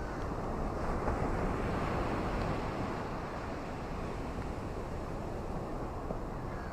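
Ocean surf: an even rush of waves that swells about a second in and then slowly eases off.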